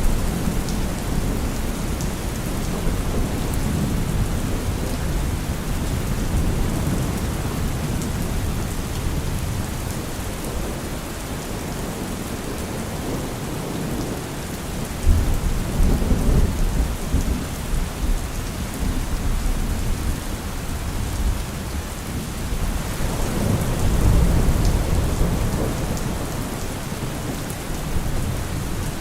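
Steady rain falling, with thunder rumbling low underneath: a sharp crack about halfway through, then a long rolling rumble swelling near the end.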